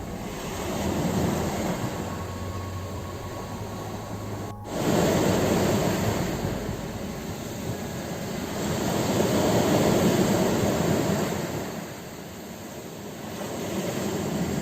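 Ocean surf breaking on a shore, the rush of water swelling and ebbing in slow surges several seconds apart. About four and a half seconds in, the sound changes abruptly, as at a splice, and grows louder.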